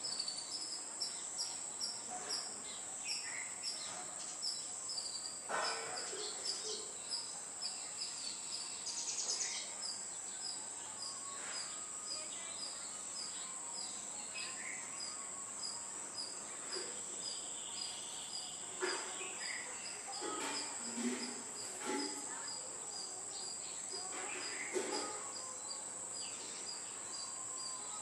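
Outdoor ambience of insects and birds: a steady high-pitched insect drone with an even, repeating high chirp, and scattered short bird calls over it.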